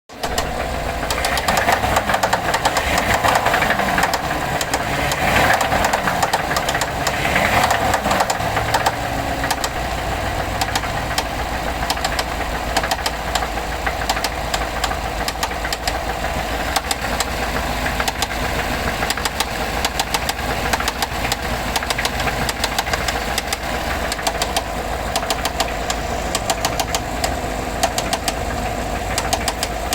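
2014 GMC Sierra's 6.2-litre V8 running with a rapid, steady knocking. It is revved up and down a few times in the first eight seconds, then left to idle. The owner wonders whether the knock is a spun bearing.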